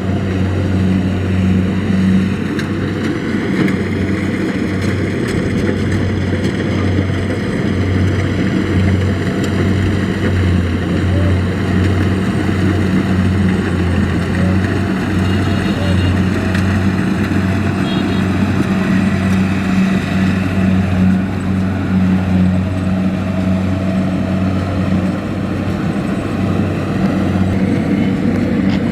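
Kubota DC-70 Plus rice combine harvester running steadily while harvesting: a continuous low diesel engine hum with a dense mechanical rush from the machinery over it.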